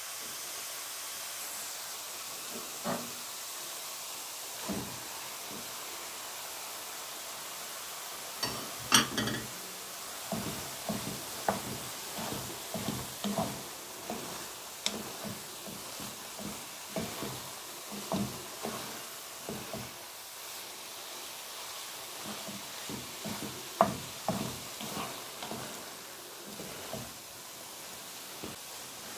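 Chopped vegetables and raw minced meat frying in a pan with a steady sizzling hiss. From about nine seconds in, a spatula clatters and scrapes against the pan in irregular strokes as the mixture is stirred, the loudest knocks about nine and twenty-four seconds in.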